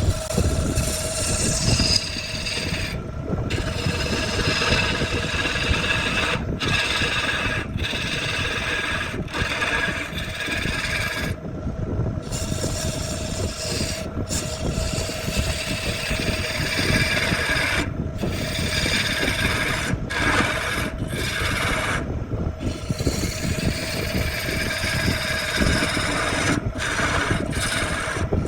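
A power tool abrading wood. Its motor runs steadily throughout while a rough, rasping grind comes and goes, breaking off for a moment about a dozen times as the tool is lifted from the wood.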